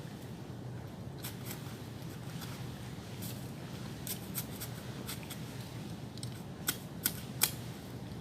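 A hand digging tool cutting and scraping into soil while a small hole is dug, heard as scattered sharp clicks and scrapes, with three louder strikes in quick succession near the end.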